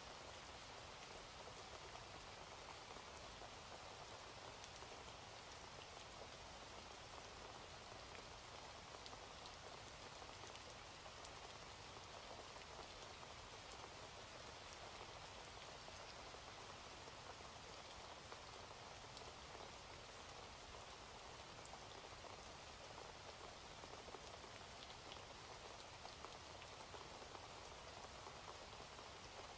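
Faint, steady rain falling, an even hiss of drops with scattered individual drop ticks.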